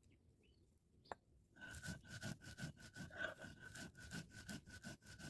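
Spatula scraping and stirring nigella seeds and dried red chillies as they dry-roast in a pan. It starts about a second and a half in, just after a single click, and goes on in quick, even strokes of about four a second.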